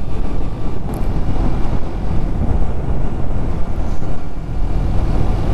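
A motorcycle underway: steady wind buffeting on the microphone over a low drone from the bike and the road.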